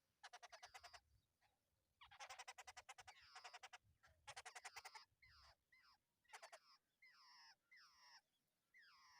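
Babblers calling at the nest: harsh, rapid rattling chatter in several bursts, then a run of squealing notes that slide downward in pitch, about two a second.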